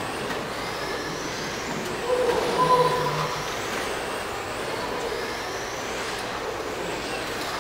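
Electric 1/10-scale RC trucks racing on an indoor dirt oval, their motors whining in high glides that rise and fall as they pass. A brief louder tone stands out about two seconds in.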